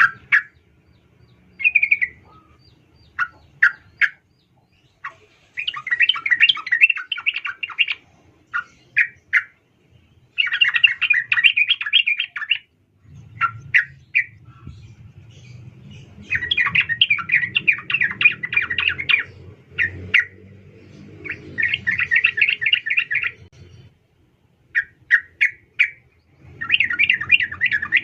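Yellow-vented bulbul (trucukan) giving repeated chattering phrases two to three seconds long, with short single notes between them: the call of a female, used as a lure to set males singing.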